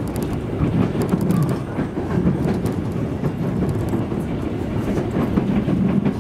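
Running noise of a JR East 205 series electric commuter train heard from inside the carriage: a steady low rumble of wheels on rail, with scattered clicks as the wheels pass rail joints and points on the approach to the terminal.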